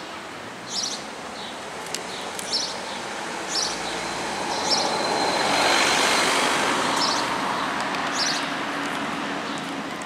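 A small bird giving short high chirps again and again, roughly once a second, over steady street noise. A passing vehicle swells up in the middle, peaks about six seconds in and fades away, and is the loudest sound.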